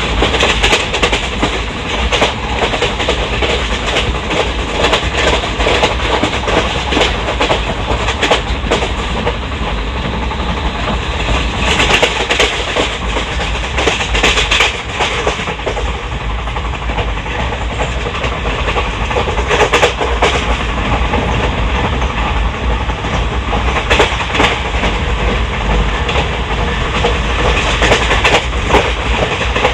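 Wheels of an Indian Railways ICF passenger coach running fast over the track: a steady rumble and rattle with repeated clickety-clack knocks as the wheels cross rail joints.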